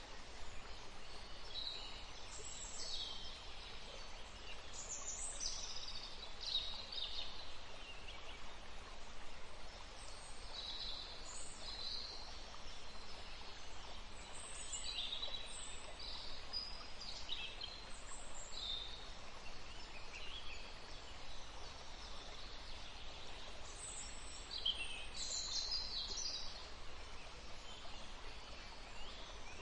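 Small birds chirping and singing in short, high notes and phrases, several overlapping, over a steady background hiss.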